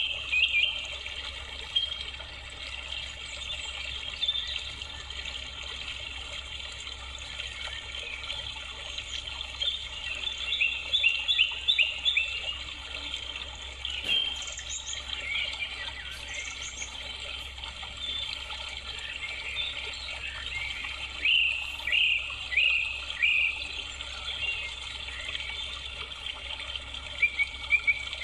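Birds chirping in bursts of short, quick notes every few seconds, over a low steady hum.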